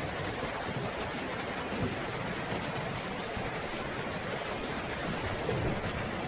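Steady heavy rain falling, an even hiss of drops, with a low rumble of distant thunder starting to build near the end.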